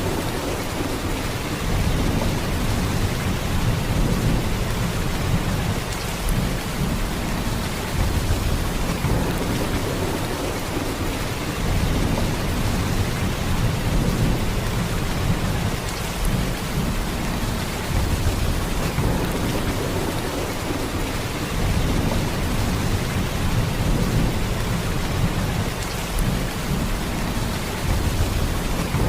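Heavy rain falling in a steady, continuous downpour, with a deep low rumble under the patter that swells and eases slightly every few seconds.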